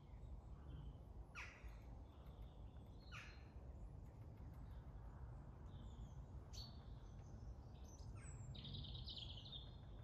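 Faint small garden birds calling: several short calls sweeping downward in pitch, a few brief higher chirps, and a longer high call near the end, over a low steady background rumble.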